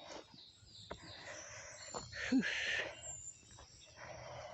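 Faint birds chirping in a forest, with rustling and footstep noise from someone walking on the trail, loudest about two seconds in.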